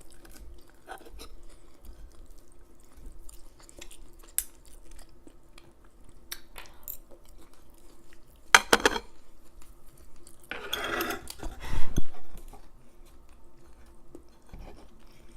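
Eating sounds: a fork clinking and scraping on a plate, with chewing between, and a louder ringing clink about eight and a half seconds in.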